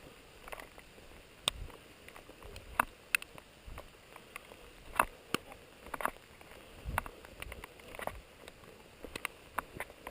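Footsteps walking on wet ground, soft thumps about once a second, with scattered sharp ticks and taps between them.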